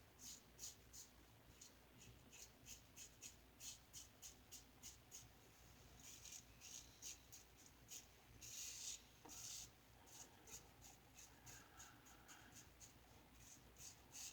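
Faint, quick scraping strokes repeating about two or three times a second, with a denser run of longer strokes near the middle.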